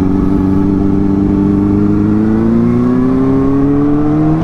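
Motorcycle engine pulling under gentle acceleration, its pitch rising slowly and steadily.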